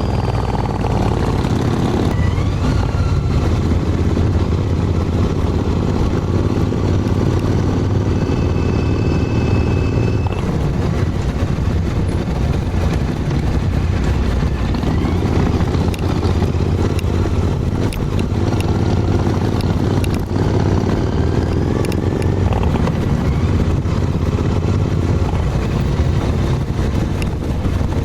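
Harley-Davidson motorcycle engine running steadily while riding, with some wind and road noise.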